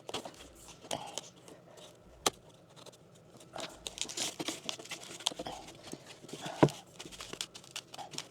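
Pipe insulation being handled and trimmed to fit over a pipe: scattered clicks, crinkling and light knocks, with one sharper knock a little over two seconds in and the loudest one near the end.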